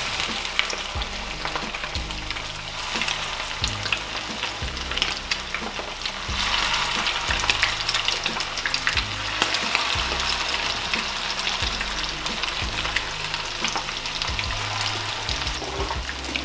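Breadcrumb-coated walleye chunks sizzling and crackling in hot canola oil in a frying pan, louder from about six seconds in as more pieces go into the pan.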